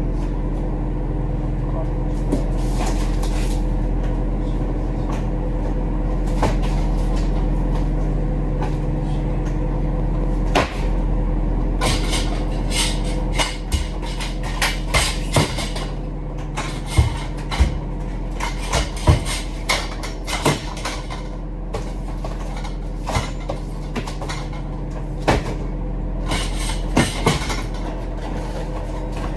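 Steady low engine hum with many short knocks and rattles over it, thickest from about twelve seconds in until near the end.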